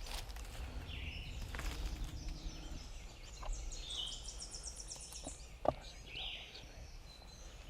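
Wild birds calling in the woods: short chirps and a quick trill of about ten high repeated notes in the middle, over a low wind rumble. A single sharp click about two-thirds of the way in.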